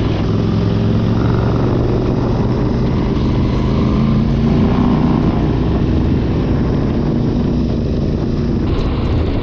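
Adventure motorcycle's parallel-twin engine running steadily while riding, over a haze of wind and road noise; the engine note lifts slightly about halfway through.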